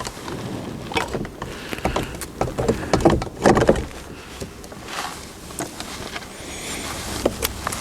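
Irregular clicks, knocks and scrapes of a towing mirror being handled and fitted against a car door, its plastic body and mounting studs knocking on the door.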